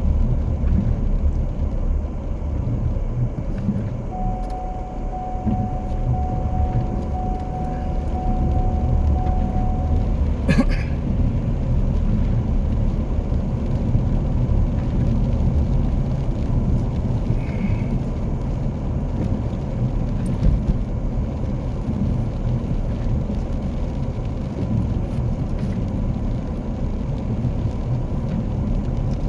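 Steady low rumble of a car heard from inside the cab. A run of even, single-pitch beeps lasts about six seconds, and a single sharp click follows just after them.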